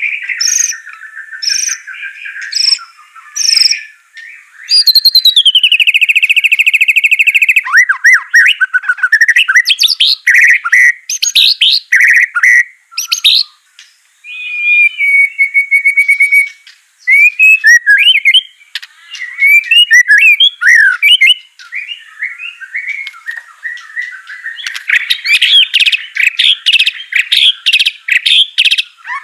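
White-rumped shama (murai batu) in full song: a long run of varied clear whistles, quick trills and buzzy rapid-fire phrases, getting dense and chattering near the end.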